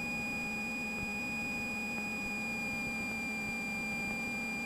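Steady high-pitched electrical whine over a low hum, heard through a Cessna 172's headset intercom with the engine idling.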